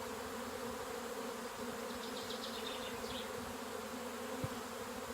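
A honeybee swarm buzzing in a steady, even drone as it settles in the branches of a tree.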